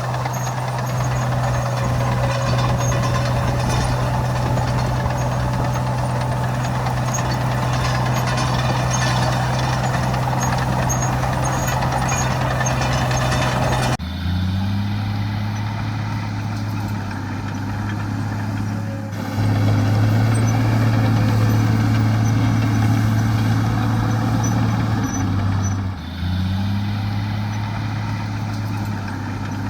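Heavy diesel earthmoving machinery engines running steadily. About halfway through, the sound switches abruptly to a different engine note that briefly rises in pitch. It gets louder a few seconds later and breaks again with a short rise near the end.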